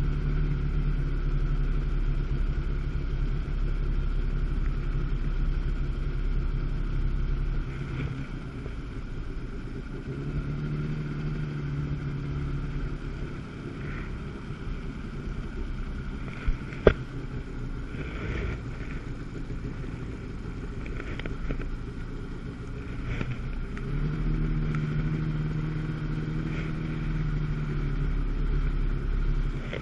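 Jet ski engine running steadily. It is loudest for the first several seconds, eases off in the middle and picks up again about three-quarters of the way through. There is a single sharp click about halfway.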